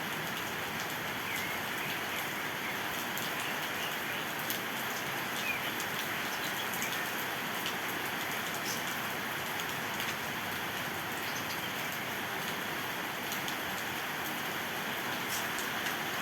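Steady rain, with a few faint, short bird chirps now and then.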